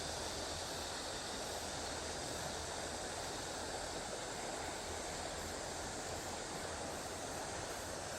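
Steady rush of river water running high after rain, an even noise without breaks.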